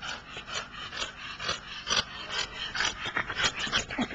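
A French bulldog breathing hard after a run, with short raspy breaths about three a second.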